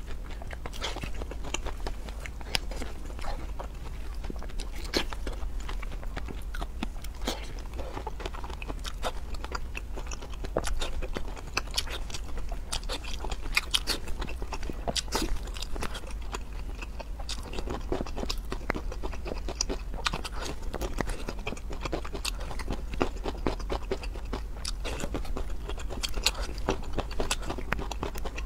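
A person eating close to the microphone: wet chewing and biting with many sharp, irregular crunches and clicks, over a steady low hum.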